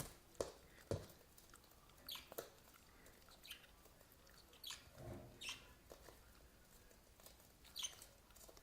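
Faint, scattered clicks and brief high squeaks from a small animal scuffling, with one slightly longer, lower sound about five seconds in.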